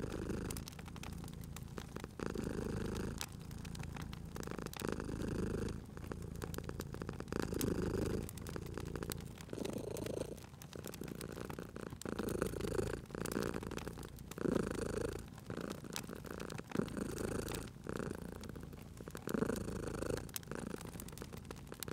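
A cat purring in slow swells that come about every two and a half seconds, with a fireplace fire crackling in small sharp pops throughout.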